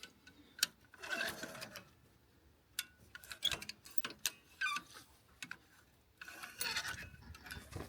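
Irregular sharp metallic clicks and rattling from a come-along ratchet being worked on stretched fence wire.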